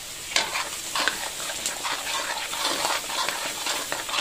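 Oil and sauce sizzling in a wok, with frequent small crackles and pops of spattering oil.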